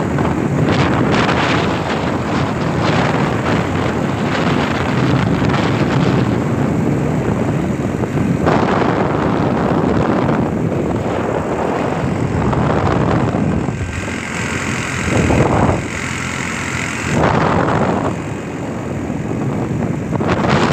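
A vehicle on the move, its road and engine noise mixed with wind buffeting the microphone, swelling and easing every few seconds.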